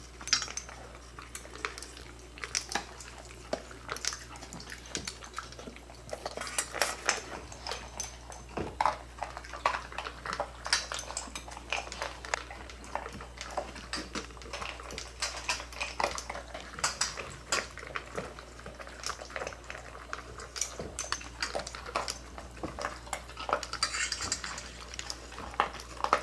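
Cats eating from food bowls, the bowls clinking and clattering in many short, irregular knocks.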